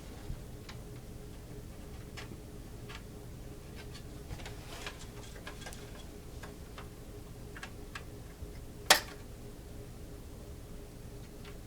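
Scattered light clicks and taps of plastic as a toothpick is worked into the holes of an Xbox 360 case to free its clips, with one much louder click about nine seconds in. A faint steady hum runs underneath.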